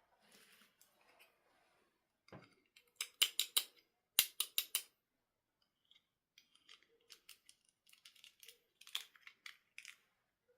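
Runs of quick, sharp clicks from hands working with small objects, loudest in two rapid runs about three and four seconds in, then lighter scattered clicks.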